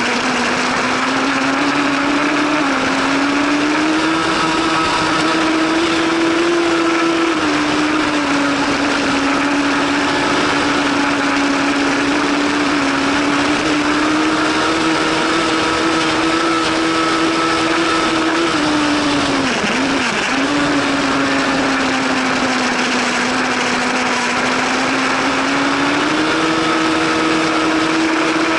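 Superbike 1000 racing motorcycle engine running hard at fairly steady high revs over a steady rush of noise, its pitch easing up and down a little, with a brief dip in pitch about two-thirds of the way through.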